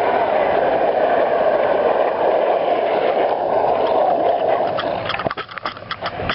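Longboard wheels rolling steadily on pavement. About five seconds in, the rolling breaks up into a quick run of knocks and scrapes.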